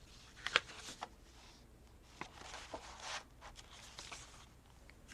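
Paper and card being handled on a desk: soft rustling with a few light clicks and taps.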